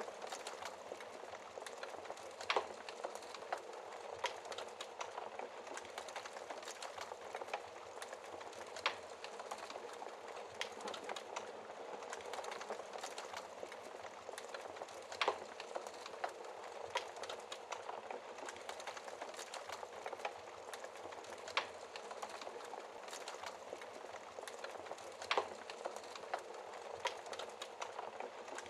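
Wood fire burning in a fireplace: a steady hiss with frequent small crackles and an occasional louder pop every few seconds.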